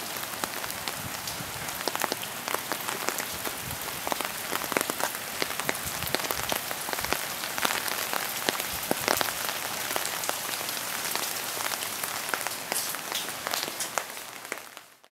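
Steady rain falling, with many individual drops striking close by as sharp ticks over an even hiss; it fades out at the very end.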